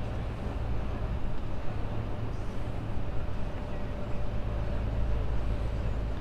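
Steady low drone of a truck's engine and road noise heard from inside the cab while driving, with a faint steady whine in the second half.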